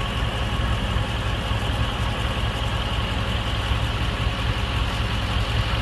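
Mercedes-Benz SL 55 AMG's supercharged V8 idling steadily, a low even rumble with a faint steady high whine above it.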